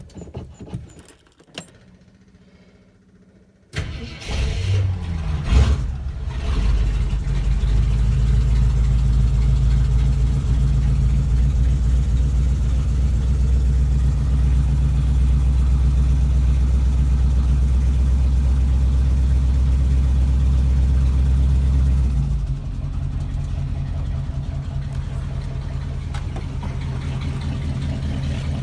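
Ford 390 FE big-block V8 cold-started: after a brief crank it fires right up about four seconds in, gives one quick rev, then runs at a loud, steady fast idle. About three-quarters of the way through the idle drops to a lower, steady level.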